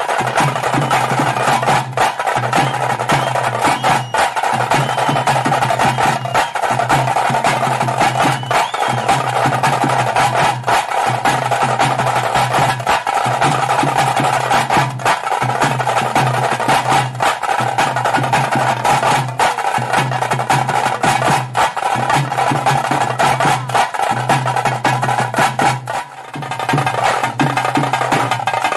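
Fast, dense drumming with sticks in a continuous rolling rhythm, the kind of tase drum beat that accompanies the Tulu Nadu tiger dance. The drumming dips briefly about 26 seconds in and then picks up again.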